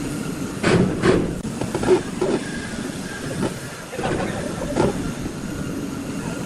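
Steady machine noise with several sharp knocks, two of them close together about a second in and another near the five-second mark.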